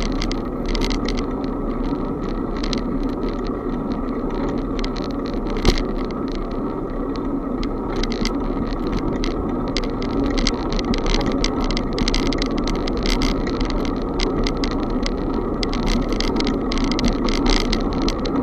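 Bicycle being ridden: a steady rush of riding noise with frequent rattling clicks, and one sharp knock about six seconds in.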